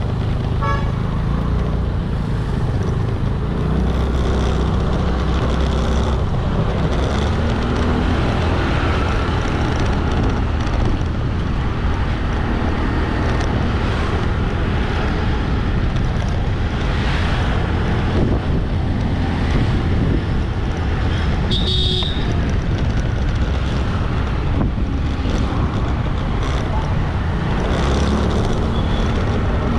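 Ride noise on a motorbike in busy traffic: a steady low engine and wind rumble with the sound of passing vehicles, and a short horn toot about two-thirds of the way through.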